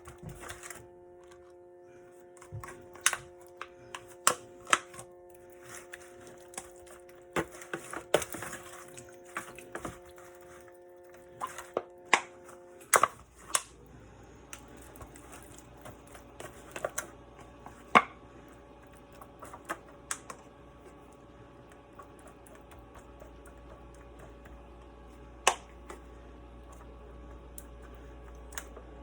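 Scattered light clicks and knocks from handling cookware and the seasoned bird, irregular and a few seconds apart. Underneath runs a steady hum that changes character about 13 seconds in.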